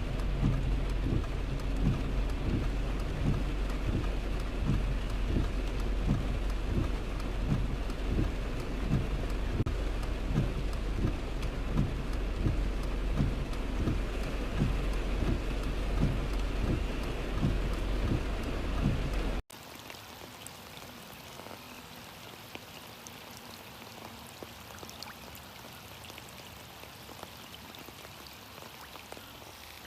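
Heavy rain falling, with big drops thudding irregularly on a nearby surface over a steady low rumble. About two-thirds of the way through it cuts abruptly to lighter, quieter rain without the rumble.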